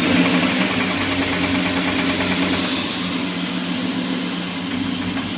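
Dodge SRT-10's 8.3-litre V10 idling steadily; the owner reports that this engine has a knock.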